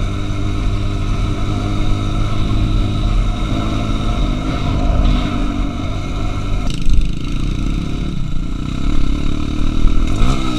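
Trail motorcycle engine running, with a sharp knock about seven seconds in and a quick rise and fall in revs near the end.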